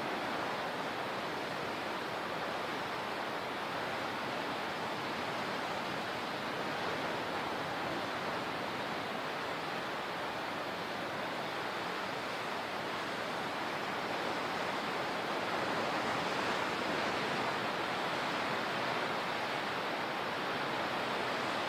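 Steady rushing of water, an even noise without distinct breaks, swelling a little about two-thirds of the way through.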